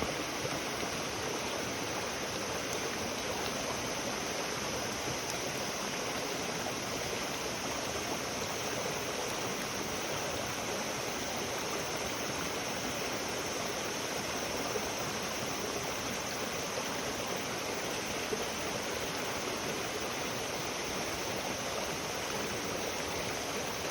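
Steady rushing noise of flowing water, unchanging throughout, with no distinct crackles or knocks.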